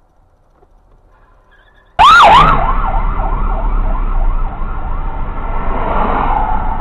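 A siren warbling fast, its pitch swooping up and down about four times a second, starting suddenly about two seconds in after near silence, over steady road and engine noise.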